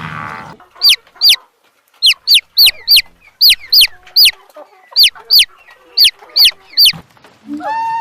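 A small bird giving about fourteen short, high chirps, each sliding sharply down in pitch, mostly in quick pairs.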